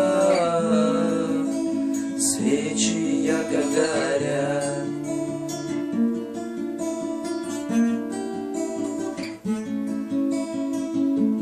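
Music: acoustic guitar picking out the instrumental ending of a slow song, one note after another. A held sung note fades out about a second in.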